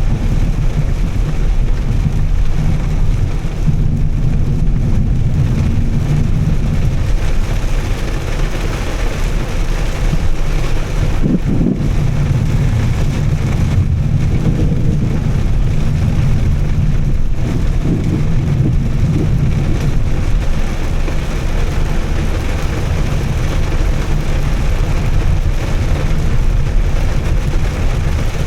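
2013 Volvo S60 T6's turbocharged straight-six, fitted with a Heico exhaust, running steadily while driving on a wet road, with a low rumble under a constant hiss of tyres on water and rain.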